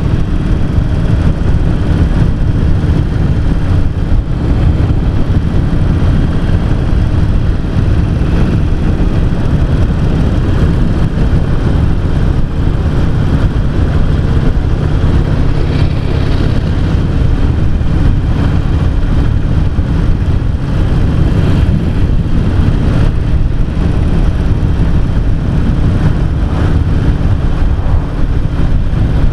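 Harley-Davidson XL883C Sportster's air-cooled 883 cc V-twin engine running steadily while the motorcycle is ridden at road speed, with wind rushing past the microphone.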